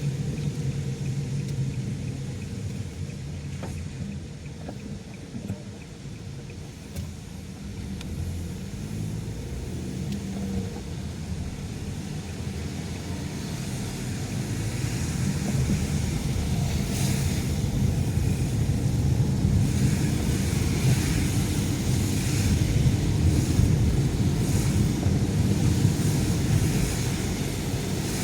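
Car driving in the rain: a steady low road rumble, with hissing from the wet road that grows louder through the second half.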